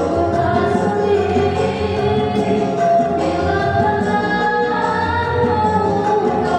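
A young woman singing a pop song over a backing track.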